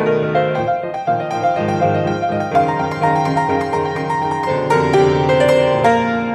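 Solo acoustic piano playing a flowing passage of quick notes over sustained lower notes, settling onto a held chord near the end.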